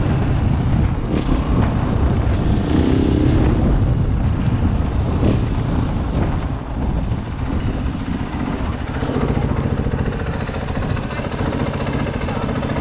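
KTM 500 EXC single-cylinder four-stroke dirt bike engine running under way, with wind noise on the microphone. The engine eases off briefly about seven seconds in, then picks up again.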